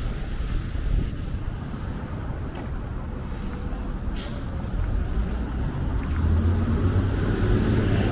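Street traffic with a heavy vehicle's engine rumbling and growing louder over the last few seconds. A short hiss comes about four seconds in.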